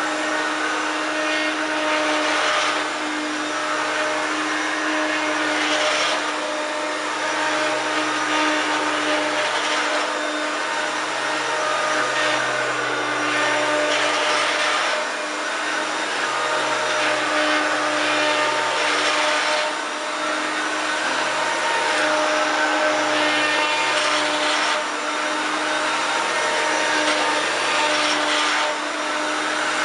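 1993 Hoover Turbopower 1 U2798 vacuum cleaner running with a steady motor hum. Its higher hiss swells about every four seconds. It sounds a bit creaky and a bit knackered, though it works well.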